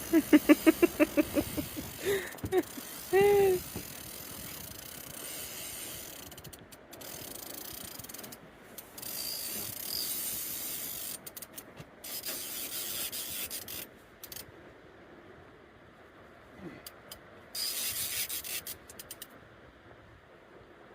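A fishing reel ratcheting and being wound while a big sturgeon is played on the rod. A fast run of clicks comes in the first second, a short squeal at about three seconds, then uneven stretches of winding that start and stop.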